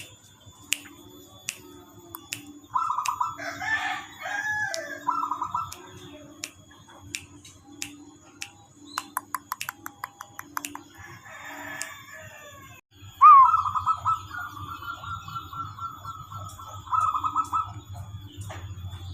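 Bird calls, with a loud, drawn-out call beginning about thirteen seconds in and lasting several seconds, over scattered short clicks.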